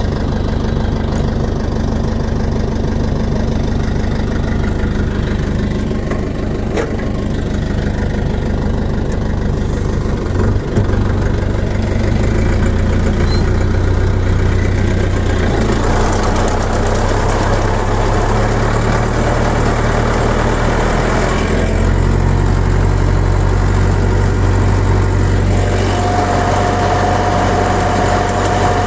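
A YTO EMF 604 tractor's 60 HP diesel engine running steadily on a 1000 rpm PTO run. Its note gets heavier twice, about halfway in and again later, with a single knock before the first change. A steady whine joins near the end.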